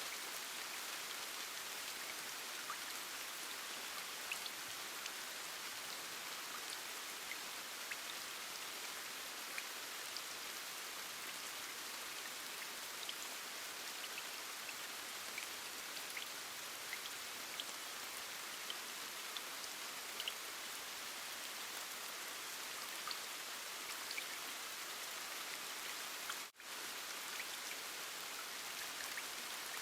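Steady rain: an even hiss scattered with small drop ticks, cut by a momentary gap near the end.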